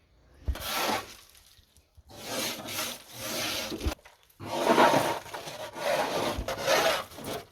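Hand saw cutting through wood, in runs of rasping strokes broken by short pauses.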